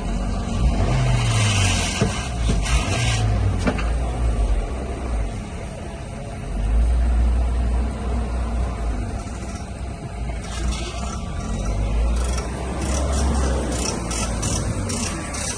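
Opel Z16XEP 1.6-litre petrol inline-four engine running on test, with two brief rises and falls in engine speed about one and three seconds in.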